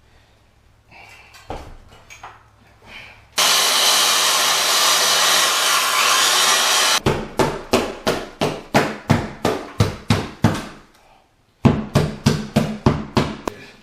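A hammer chipping old wood off the edge of a subfloor opening, in rapid blows about three to four a second, in two runs with a short pause between. Before the blows, a few light knocks and a loud steady rushing noise lasting about three and a half seconds that starts and stops abruptly.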